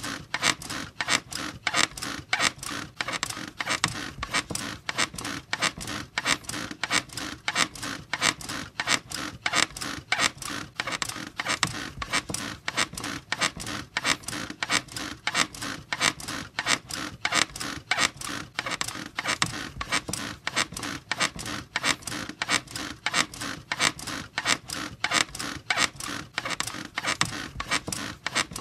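Squeaking bed, its frame and springs creaking in a steady rhythm of repeated squeaks, several a second.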